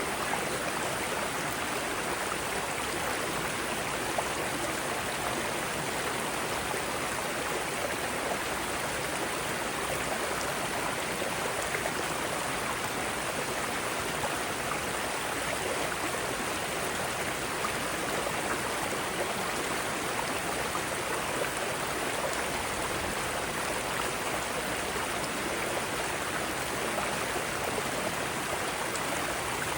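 Mountain stream running over rocks, a steady, unbroken rush of water.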